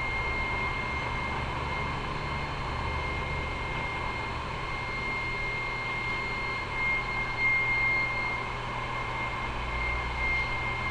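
Petrol station fuel dispenser running while petrol is pumped into a motorcycle's tank: a steady mechanical hum with a thin, high, constant whine over it.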